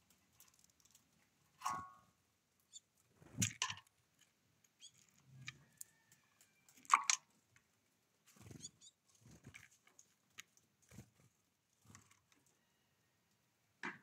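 Scattered light taps and knocks, about ten of them, the loudest about seven seconds in: a great tit landing, hopping and pecking on a bird bath beside a wooden seed tray.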